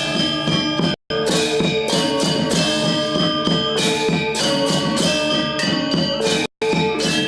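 Balinese gong gamelan playing a classical lelambatan piece: bronze metallophones and gongs struck in dense, ringing interlocking patterns over drums. The sound drops out briefly to silence twice, about a second in and near the end.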